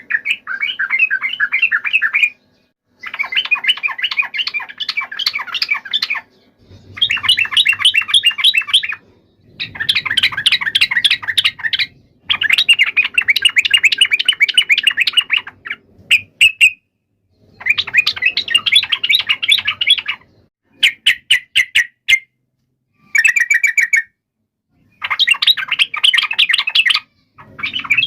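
Yellow-vented bulbul (trucuk) giving a fighting-style song: bursts of rapid, chattering notes lasting two to three seconds each, repeated over and over with short pauses between.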